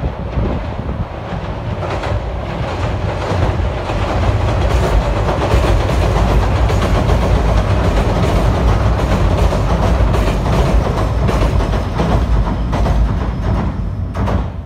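Meitetsu 1700 series electric train crossing a steel girder railway bridge: a heavy rumble with a rhythmic clickety-clack of wheels over the rail joints. It grows louder over the first few seconds, is loudest mid-way as the cars pass close, and begins to fade near the end.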